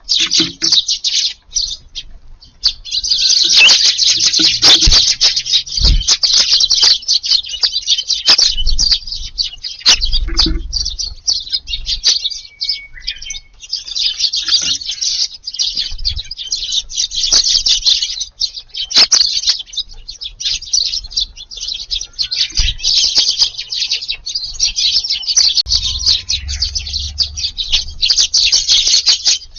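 A crowd of Eurasian tree sparrows chirping many at once, with occasional wing flutters; the chatter thins briefly and thickens to a near-continuous din about three seconds in.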